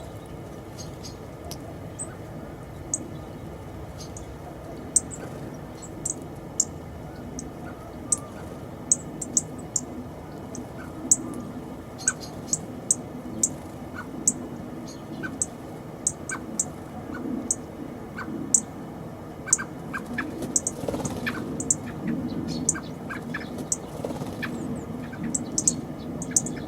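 Small birds chirping: many short, sharp high chirps at irregular intervals, thickest in the second half, over a low steady background rumble.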